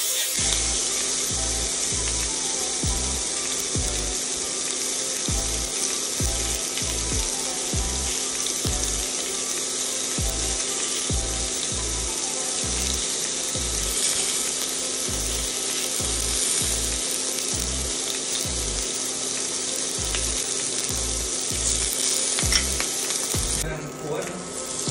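Salmon steak sizzling in a hot cast-iron grill pan, a steady hiss that drops away near the end. Background music with a steady low beat plays under it.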